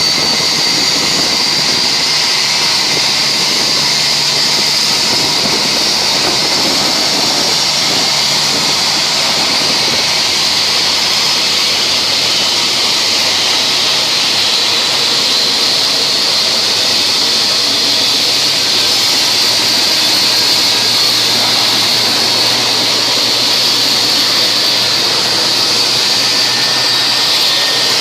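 Jet airliner engines running steadily at idle: an even rushing noise under a strong, high, steady whine.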